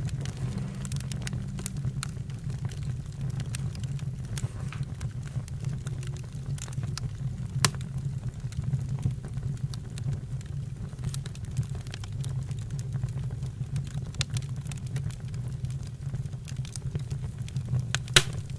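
Campfire burning: a steady low rumble of flames with scattered crackles and pops, one sharper pop about midway and another near the end.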